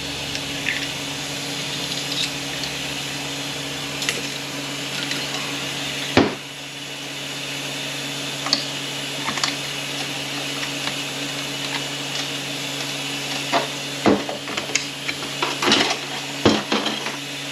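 Internal parts of an Aisin-Warner A340F automatic transmission being handled during teardown: scattered metal clinks and knocks, with one sharper knock about six seconds in and a cluster more near the end. A steady low hum sits under it all.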